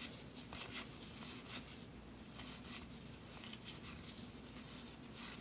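Thin 1981 Donruss baseball cards being flipped through by hand: faint, irregular soft clicks and swishes of card stock sliding over card stock.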